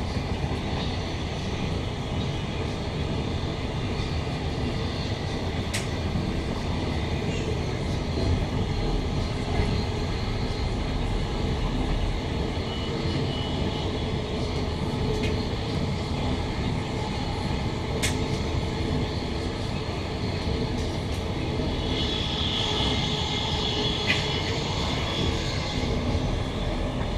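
Cabin running noise of a Queensland Rail NGR electric train in motion: a steady rumble of wheels on rail through the car body. There are a couple of sharp clicks, and a brighter hiss swells for a few seconds near the end.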